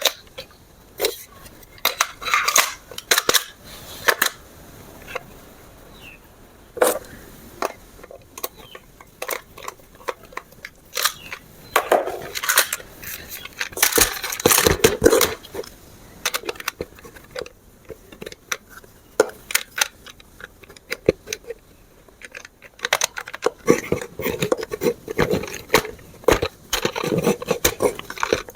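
Hard plastic toy parts and packaging being handled: irregular clicks, knocks and rustles, with denser stretches of scraping about halfway through and again near the end.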